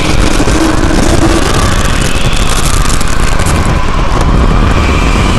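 Tornado wind roaring: a loud, steady rushing roar with a deep rumble underneath.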